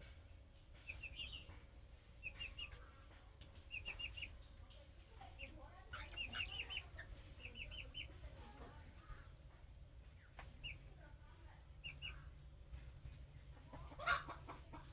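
Budgerigar chirping in quick clusters of three or four short high notes, repeated every second or two, with one louder call near the end.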